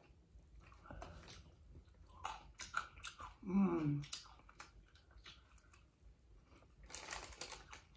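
Mouth sounds of people eating fried chicken wings up close: chewing and biting, with scattered crunchy clicks that thicken near the end.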